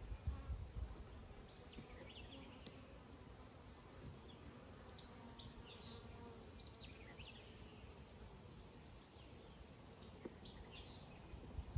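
Faint, steady buzzing of honeybees around the hives, with short high bird chirps now and then.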